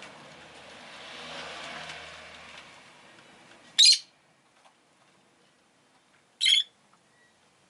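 Rosy-faced lovebird giving two short, loud, shrill chirps about two and a half seconds apart. Before them, a passing vehicle's noise swells and fades.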